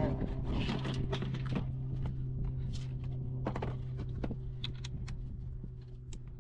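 Irregular clicks and light metal knocks of hand tools working on a car engine, over a steady low hum.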